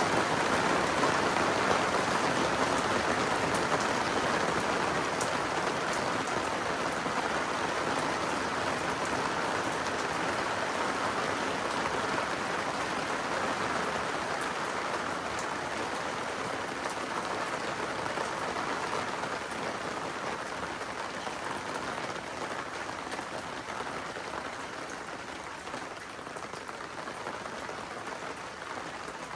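Rain falling steadily during a thunderstorm, a dense hiss with occasional drop ticks, gradually growing quieter as the downpour eases.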